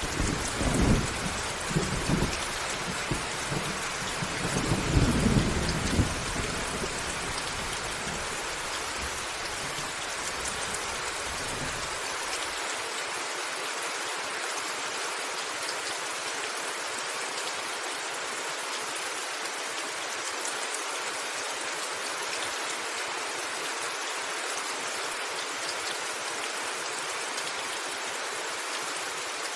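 A thunderclap rolls in at the start with several rumbling peaks, loudest about five seconds in, then fades away by about twelve seconds. Under it, rain falls steadily on a roof.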